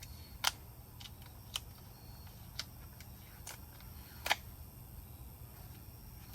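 A few short, sharp clicks, five of them roughly a second apart, the loudest about four seconds in, over a low steady hum.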